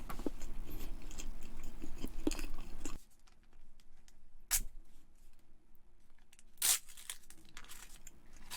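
Close-miked chewing with small crunchy clicks for about three seconds. Then it goes much quieter, broken by two short, sharp noises about two seconds apart.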